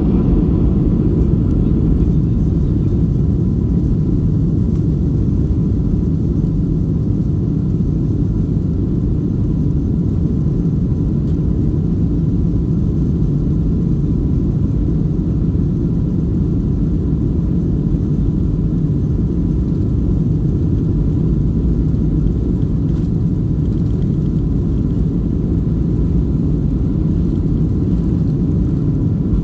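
Steady cabin noise inside a Boeing 737-600 airliner: a low, even rumble of the CFM56-7B engines and the airflow past the fuselage, with a faint steady whine over it.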